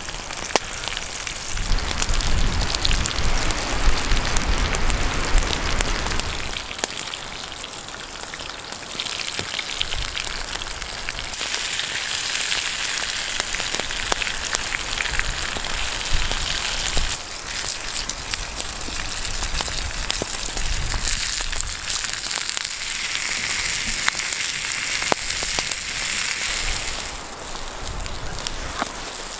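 Sliced potatoes and onions frying in oil in a metal pan over an open wood fire: a steady sizzling hiss with small crackles and pops, growing louder and brighter in stretches. A low rumble runs under the first six seconds or so.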